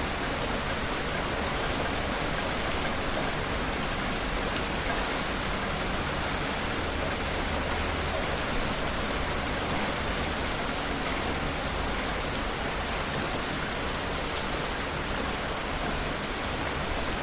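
Heavy rain falling steadily: a dense, even hiss with scattered faint drop ticks.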